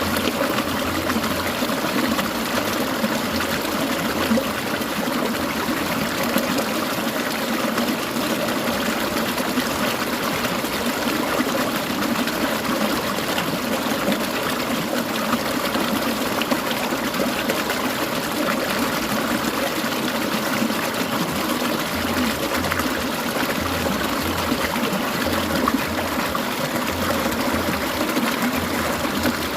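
Clear mountain stream water babbling and trickling steadily, an even rushing wash with no breaks.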